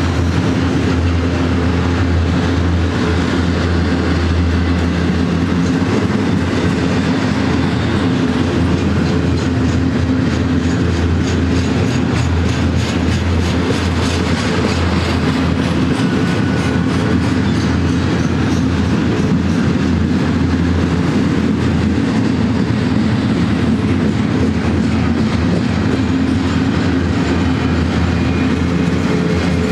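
A double-stack container freight train rolling past at close range: a steady, loud rumble of loaded well cars, with a regular clack of wheels passing over rail joints.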